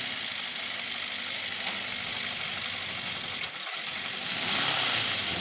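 A 1981 Honda CB650's air-cooled inline-four motorcycle engine running steadily as it drives a small aluminium boat, with a brief dip past the middle and growing louder near the end.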